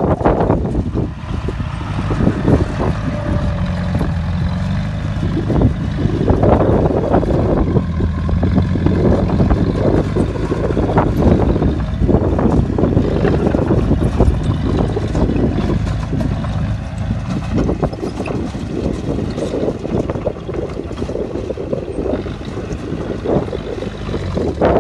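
Bulldozer's heavy diesel engine running under load, its steady low drone swelling and easing as the machine works.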